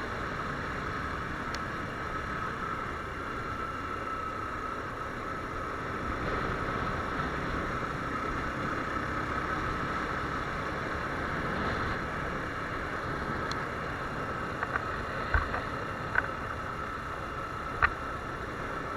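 Viper R2 motorcycle running along the road, a steady engine and road noise with wind rushing over the microphone. A few sharp clicks or knocks come near the end.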